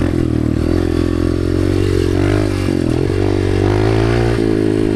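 Dirt bike engine running under riding load, its revs rising and falling again and again as the throttle is worked.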